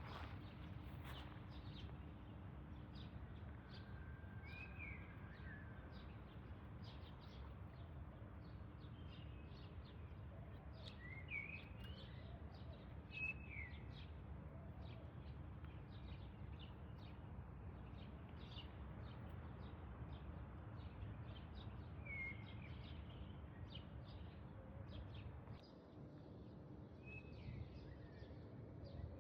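Faint outdoor background noise, a low steady rumble, with a few short bird chirps scattered through it.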